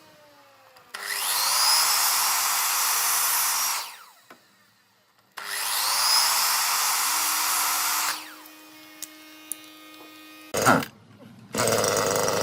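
A power tool run twice for about three seconds each, spinning up at the start and winding down with a falling whine when released; a short burst comes near the end, and then it starts again.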